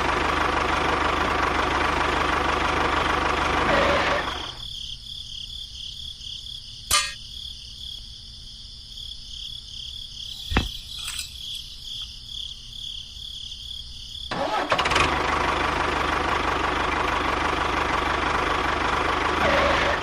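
A small motor running with a loud, even mechanical noise. It drops to a quieter high whine about four seconds in, with two sharp clicks, and runs loud again near the end.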